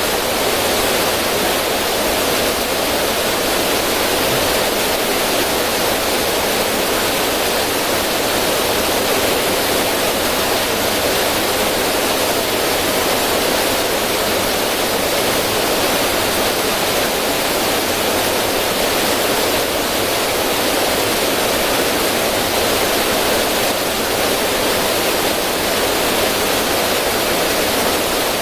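River water running over rocks in a small cascade: a steady, unbroken rush of splashing water.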